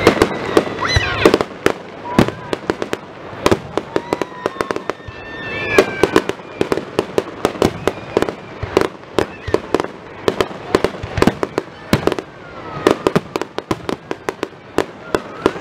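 Fireworks display: a fast, irregular barrage of sharp bangs from aerial shells bursting, several a second, with a few whistling tones gliding in pitch among them.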